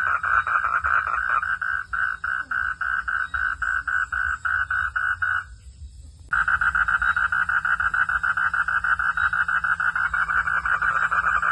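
Frogs calling in a fast pulsing chorus of about five pulses a second. The chorus cuts out for under a second near the middle, then comes back denser.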